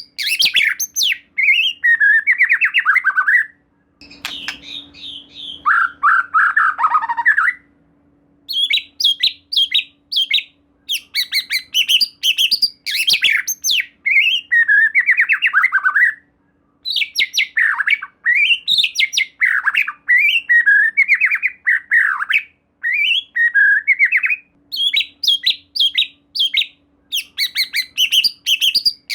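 A white-rumped shama (murai batu) in full song: fast, varied phrases of quick chattering notes, trills and whistled sweeps, one after another with only brief pauses.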